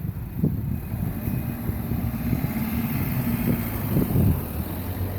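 Street traffic: a motor vehicle's engine running close by with a steady low hum.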